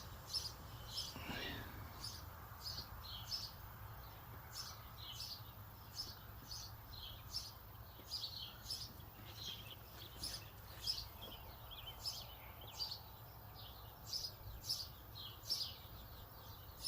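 Songbirds chirping: a steady stream of short, high chirps, about two a second, over a faint low rumble.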